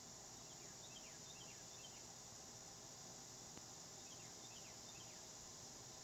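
Faint calls of a small bird: two short runs of quick chirps, each chirp sliding downward, about three in each run, over a steady high hiss.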